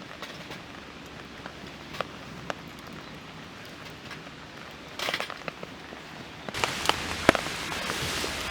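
Rain pattering on a tarp, with scattered single drops tapping sharply. About six and a half seconds in it suddenly gets louder and denser.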